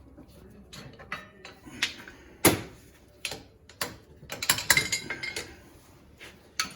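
Scattered metal clicks and clanks with a sharp knock about two and a half seconds in and a cluster of rattling clinks a little after four seconds: steel spacers, driver and parts being handled at a jack-driven shop press while pressing out a wheel bearing.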